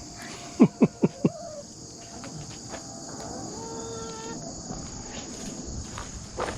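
Steady, high evening chorus of crickets, with a quick run of four short, loud rising calls about half a second in and a few fainter calls later.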